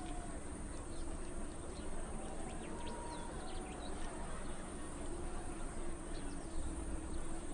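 Small birds chirping now and then over a steady low background hum.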